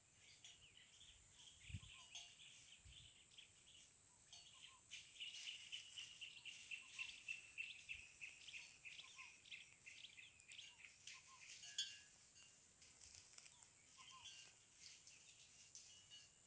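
Faint outdoor wildlife ambience: small birds chirping and twittering, busiest in the middle, over a steady high-pitched whine. Two soft low bumps come about two and three seconds in.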